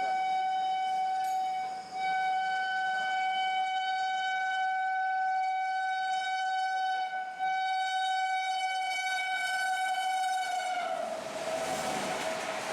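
Locomotive horn sounding in long, steady blasts, with two brief breaks, as a train approaches at speed. Near the end the horn's pitch drops as the locomotive passes, and the rush of the passing train takes over.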